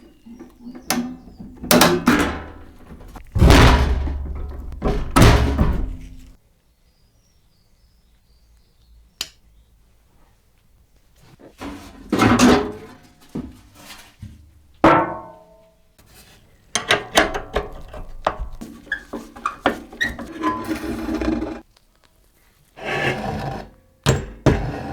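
Irregular thunks, knocks and clatter of the parts of an old all-mechanical football arcade machine being handled, in several clusters with a quiet stretch of several seconds after the first.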